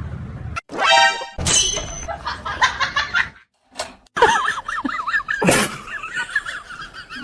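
Short clips cut together: a brief high-pitched call, a stretch of laughter, then music with a warbling melody, each broken off abruptly with short silences between.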